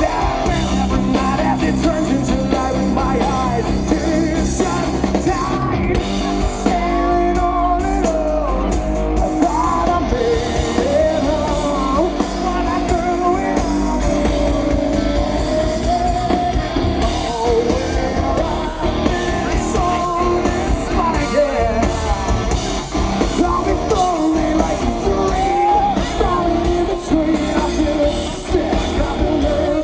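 Rock band playing live, with a male lead vocal singing over electric guitars and drums.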